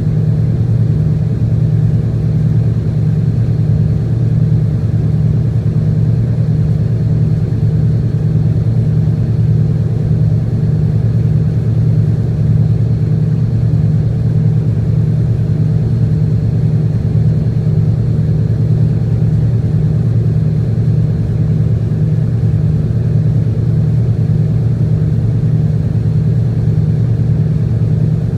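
Tugboat's diesel engine running at a steady low drone that does not change in pitch or loudness.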